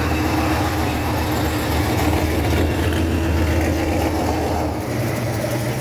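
A car engine running at idle, a steady low drone whose pitch steps up a little about five seconds in.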